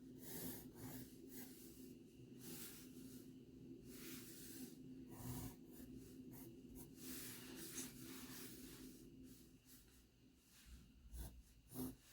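Faint pencil strokes on paper while sketching: short, irregular scratches, over a steady low hum that fades out near the end.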